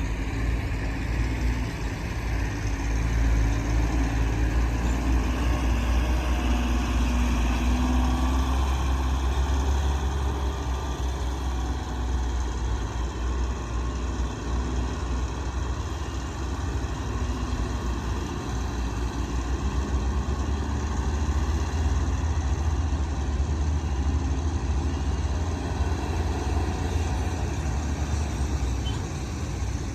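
Diesel engines of heavy earthmoving machinery running steadily, a low engine sound that grows a little louder twice and eases in between.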